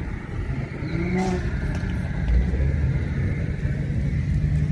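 Car engines running with a low rumble, one rising briefly in pitch about a second in like a light rev.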